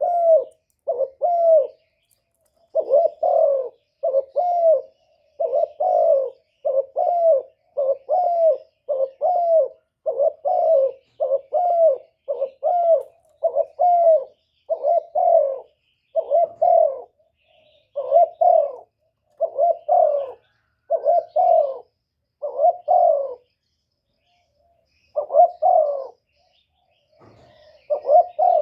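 Spotted dove giving its rapid bowing coo ('cu gù'), the lure call used to draw wild doves in: short coos, mostly in quick pairs, about one pair a second, with a pause of about two seconds near the end.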